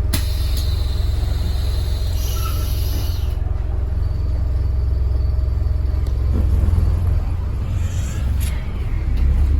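Scania N270UD OmniCity double-decker bus heard from inside: the diesel engine's low rumble, with a click at the start and a short hiss about two seconds in. The rumble grows louder about seven seconds in.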